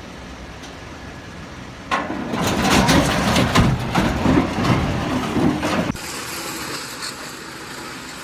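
Vehicle engine rumble, then about two seconds in a much louder, rough stretch of rumbling with many short crackles and knocks that stops abruptly about four seconds later, leaving a quieter steady background.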